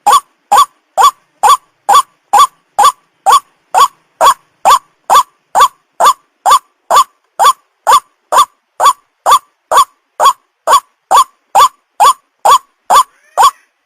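White-breasted waterhen call: a short, loud note repeated evenly about twice a second, each note hooking slightly upward. It is a lure call meant to attract young waterhens.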